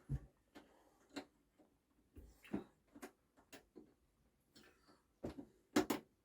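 Irregular light clicks and knocks of small metal mower parts being handled and pushed into place, with a quick double knock near the end the loudest.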